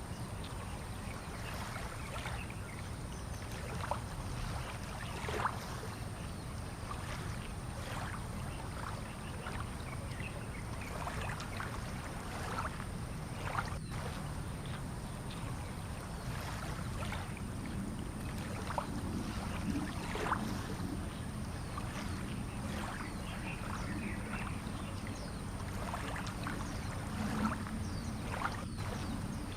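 Fishing-harbour ambience: water lapping and splashing in small, irregular bursts over a steady low hum.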